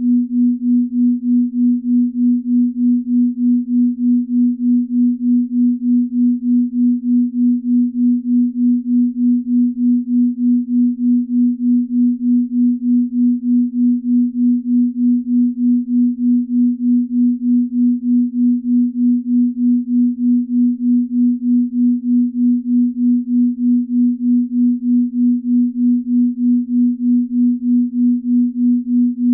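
Binaural-beat tone: one steady pure tone near 250 Hz, pulsing evenly in loudness about three times a second, a slow beat of the kind used for deep-sleep relaxation.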